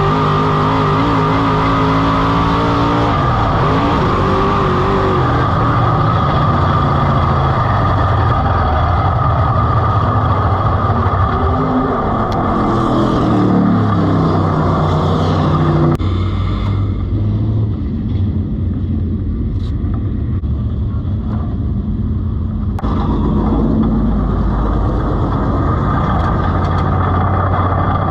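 Race car engine running hard on track, revving up and down as it goes through the laps. The sound changes abruptly about halfway through and again a few seconds later.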